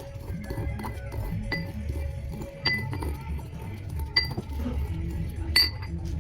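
Four separate ringing clinks of a hard utensil striking a hard container, spaced a second or more apart, with the last the loudest. A steady low hum runs beneath them.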